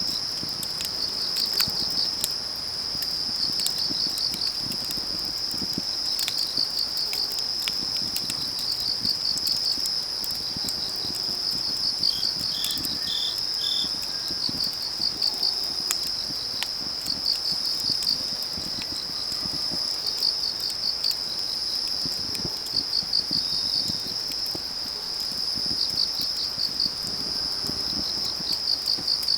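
Autumn crickets and other grass insects trilling steadily, with groups of rapid chirps repeating every second or two, over the sharp crackle and pops of burning firewood. About twelve seconds in, another insect gives four short chirps in a row.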